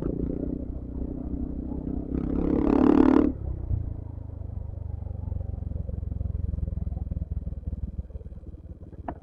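Yamaha XMAX 250 scooter's single-cylinder engine running steadily at riding speed, with a louder held tone, like a vehicle horn, about two seconds in for a little over a second.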